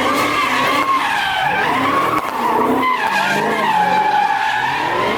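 A car drifting, its tires squealing steadily while the engine revs up and down underneath.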